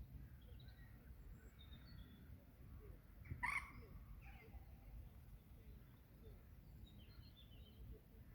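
Faint scattered bird chirps over a low steady rumble, with one brief, louder call about three and a half seconds in.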